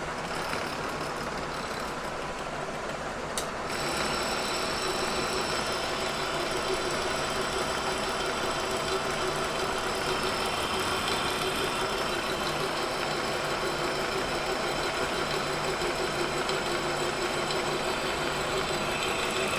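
Kearney & Trecker 2HL horizontal mill cutting cast iron with an insert face cutter. The cut grows louder about three and a half seconds in and carries on as a steady, violent chatter with high ringing tones, a sign that the setup lacks rigidity: the milling head had not been properly tightened.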